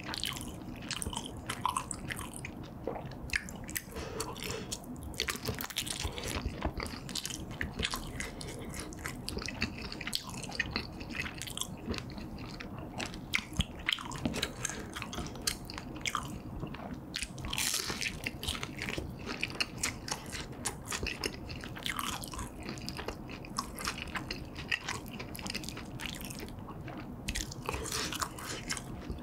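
Close-miked eating: biting into a kielbasa sausage and a fried battered pepper, with chewing and many sharp little clicks and mouth smacks throughout.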